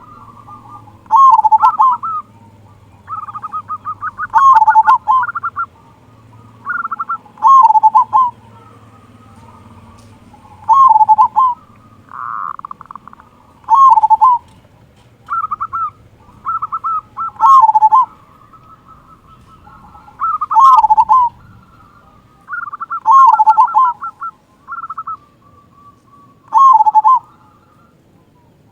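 Male zebra dove (perkutut) singing. It repeats its cooing phrase about every three seconds, each a quick stutter of notes ending in a deep 'kung' note.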